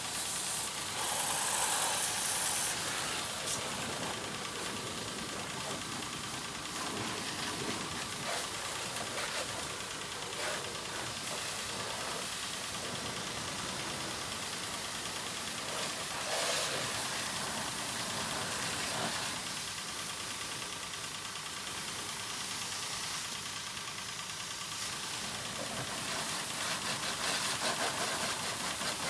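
A motor running steadily, with a hiss typical of water spray over it that is loudest about one to three seconds in.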